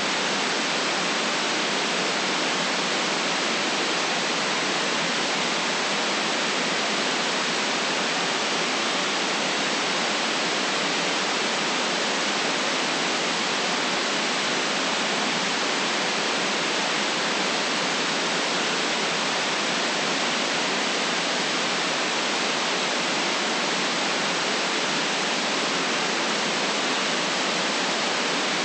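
Steady generated white noise: an even, unchanging hiss with the deepest bass and the highest treble filtered out.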